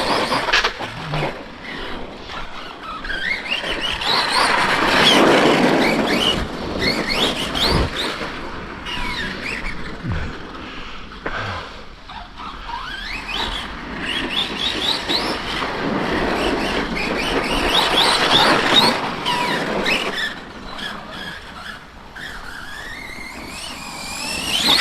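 Brushless electric RC monster trucks being driven hard on dirt: a high motor whine rising and falling in pitch with the throttle over and over, with stretches of loud tyre noise from spinning wheels and a few knocks from landings or hits.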